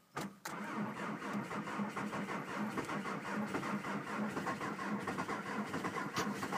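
A click, then the starter cranking the 2001 Volkswagen Golf TDI's 1.9-litre four-cylinder turbodiesel in a −25 °C cold start, a steady rhythmic chug with the engine not yet firing. It is heard from inside the cabin.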